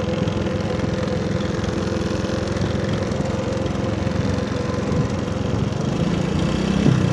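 Motorcycle engine running steadily with a rapid, even firing pulse, growing a little louder near the end.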